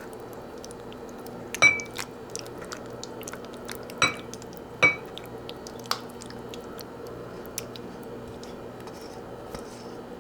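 Tableware clinking: about five sharp clinks over a few seconds, three of them ringing briefly like ceramic or glass being struck, over a steady low hum.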